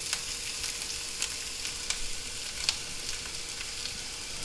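Breadcrumb-coated egg patties frying in hot oil in a pan: a steady sizzle with scattered crackling pops.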